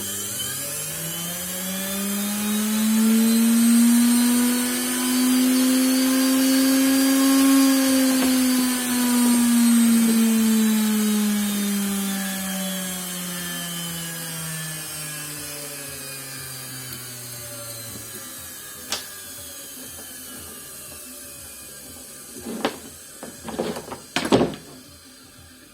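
LG washing machine's brushed universal motor running with no load, wired straight to the mains: its whine rises for about seven seconds, then slowly falls in pitch and fades. A few sharp knocks come near the end.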